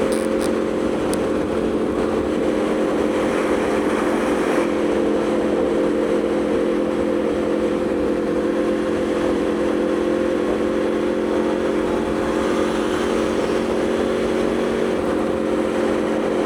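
Aprilia Tuono V4 motorcycle's V4 engine running at a steady cruising speed, holding an even pitch, with wind noise over it.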